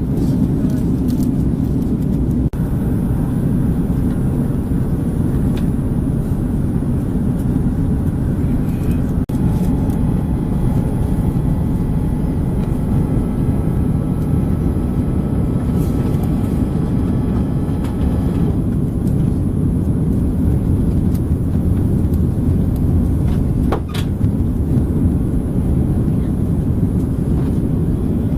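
Steady cabin roar of an Airbus A330-300 in flight: engine and airflow noise heard inside the passenger cabin, with a faint higher whine in the first half.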